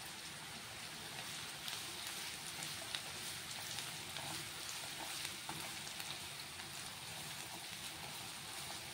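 Grated coconut, onion and green chillies frying in a nonstick pan: a steady sizzle with small crackles. From about a second and a half in, a spatula stirs and scrapes through them with light taps.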